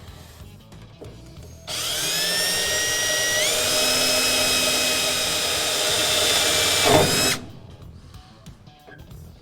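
A handheld electric power tool starting with a high whine that climbs as it spins up, steps up again, runs steadily for about five seconds and then cuts off.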